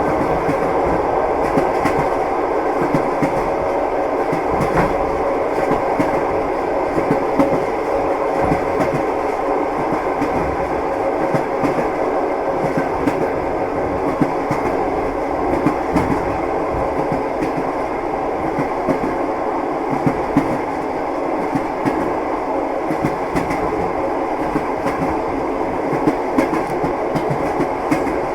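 Railway carriage wheels clattering on the rails in a steady, continuous rumble, with frequent short clacks over the track. A faint steady hum runs underneath.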